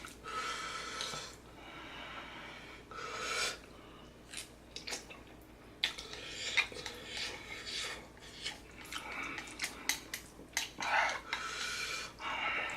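A person breathing hard and hissing air in and out, with sniffs and wet mouth clicks and smacks, reacting to the burn of very spicy noodles.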